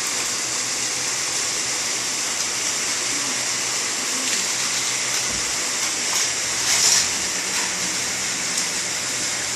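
Steady hissing, rushing noise at an even level, with a few faint short sounds about six to seven seconds in.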